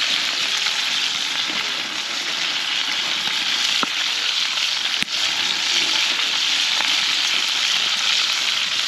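Food frying hard in a hot, fatty pan over a campfire: a steady sizzle, broken by a short click about five seconds in.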